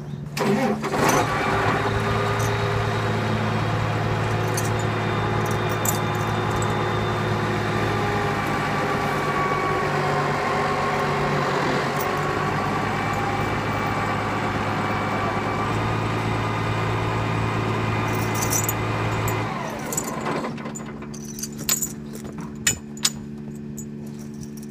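Tractor engine running. It picks up to a louder, busier note about a second in, holds there, then drops back to a steady idle about twenty seconds in. A few sharp clicks follow near the end.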